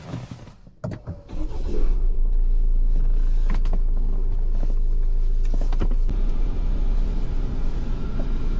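Ford Everest SUV heard from inside the cabin: a few clicks, then about a second in a loud, low rumble comes in and holds steady, with occasional clicks over it.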